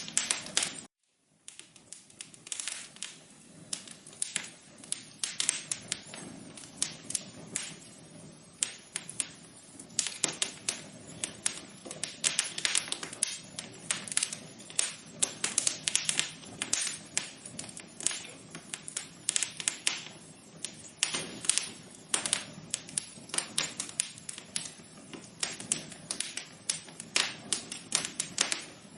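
Wood fire crackling in a fireplace: dense, irregular pops and snaps over a low hiss, with a brief gap of silence about a second in.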